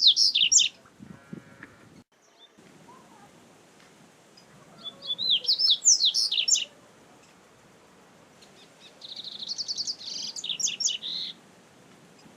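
Double-collared seedeater (coleiro) singing: short bursts of quick, high, sweeping twittering notes. One phrase ends just under a second in, another comes about five seconds in, and a longer one around nine seconds opens with a rapid trill.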